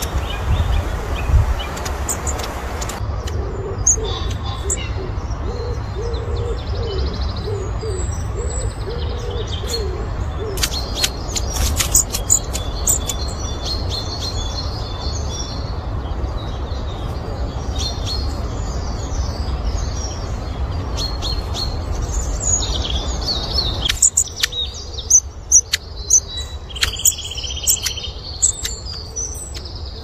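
Small birds chirping with short high calls, joined from about four seconds in by a lower wavering hooting call that repeats for several seconds, over a steady low rumble.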